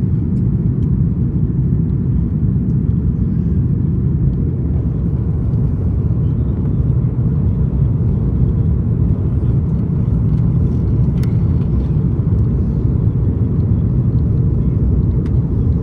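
Steady low rumble of an Airbus A330-200 airliner's engines and airflow, heard inside the passenger cabin.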